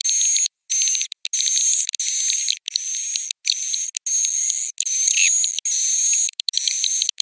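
Swiftlet roosting-call lure recording: dense, high-pitched swiftlet twittering and chirping over a steady whistle-like tone, chopped by a dozen or so abrupt brief dropouts. It is a call played in swiftlet houses to draw the birds in to roost and nest.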